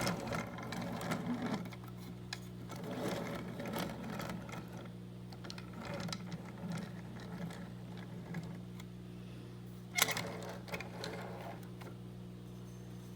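Toy train locomotive being handled, with light clicks and rattles and a sharper knock about ten seconds in, over a steady low electric hum.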